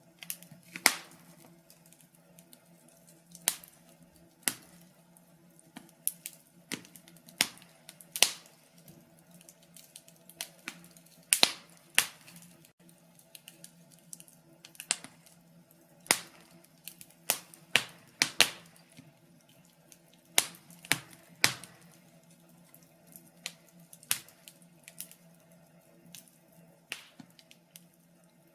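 Wood fire in a fireplace crackling, with sharp irregular pops of varying loudness over a faint low steady hum.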